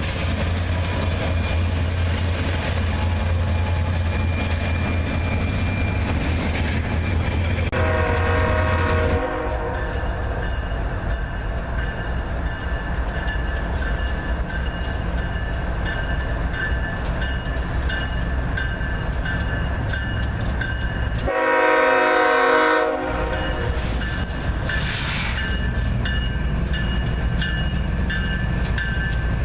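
Train rolling past with a steady rumble of engine and wheels on rail. The locomotive horn sounds twice: a short blast about eight seconds in and a longer, louder one a little after twenty seconds.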